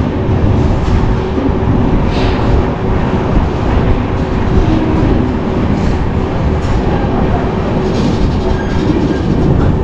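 Passenger train running along the track, a loud steady rumble of wheels on rails.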